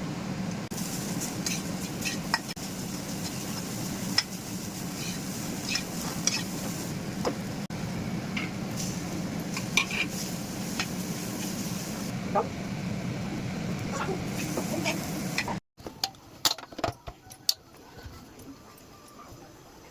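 A utensil stirring and scraping food sizzling in a pan, with frequent sharp clicks of the utensil against the pan over a steady hum. A little over three-quarters of the way through it cuts off suddenly, leaving a quieter stretch with a few louder clicks and taps.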